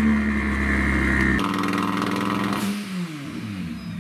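A roughly 900-horsepower drift car engine revved with the car standing still: the revs climb, are held high with a fast stutter for about a second, then fall away.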